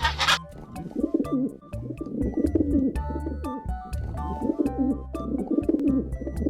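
A bird calling in repeated low, wavering phrases of about a second each, over background music with a steady bass line.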